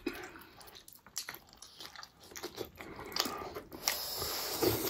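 Close-up chewing and biting sounds of a person eating, a scatter of irregular soft clicks that get busier near the end.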